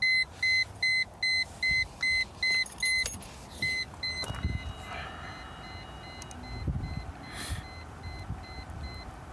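An electronic car warning chime beeping, a single two-note-high tone repeating about two and a half times a second: loud for the first three seconds, then continuing more faintly. A few dull knocks sound under the later beeps.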